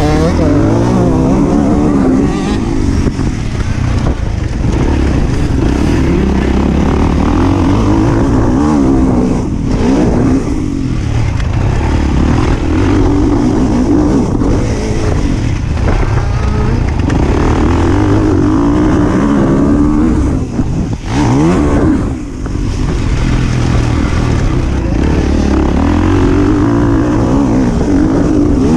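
Motocross bike engine revving hard and easing off over and over as it is ridden, mixed with the whine of the chasing FPV drone's motors.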